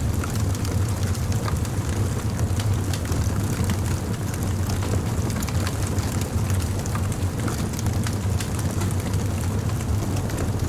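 Wood bonfire burning: a steady low rush of flames with frequent small, irregular crackles and pops.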